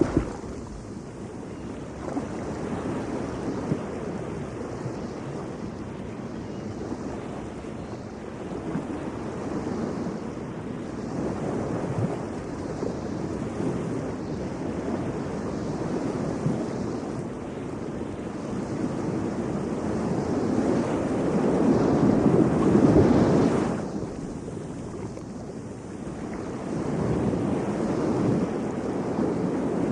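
Ocean surf breaking and washing up on a beach, a steady rushing that swells and ebbs with each wave. The loudest wave builds about two thirds of the way in, falls off sharply, and another builds near the end.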